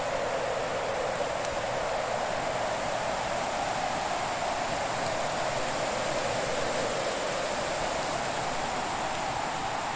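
Winter fire-and-wind ambience: a steady rushing hiss whose pitch dips slowly and rises again, with only a faint crackle or two from the fire.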